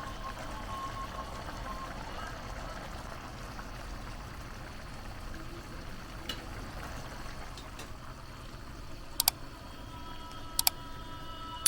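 Water running or pouring steadily. Near the end come two sharp metallic clinks, the second leaving a brief ring.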